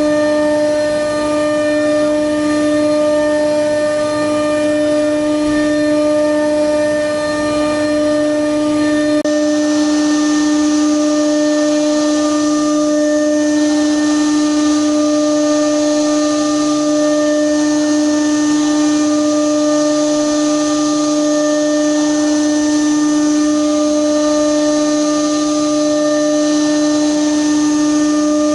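Metal lathe running with a steady, unchanging pitched whine. About nine seconds in, a higher hiss joins the whine and carries on.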